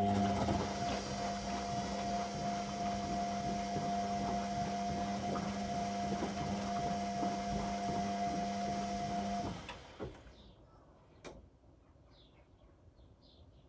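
Washing machine turning its drum in a wash phase: a steady motor hum with the laundry and water churning, stopping suddenly about nine and a half seconds in. One sharp click follows a little later.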